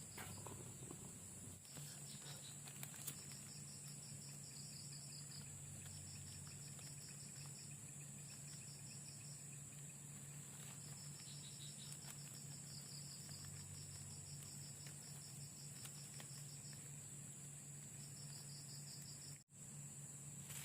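Night insects: a steady high-pitched drone, with crickets trilling in repeated runs of rapid chirps lasting a second or two each. A faint low steady hum sits underneath, and everything cuts out for an instant near the end.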